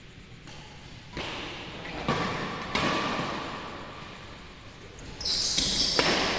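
Badminton play in a large hall: a run of sharp hits and thumps that echo, with short high squeaks near the end.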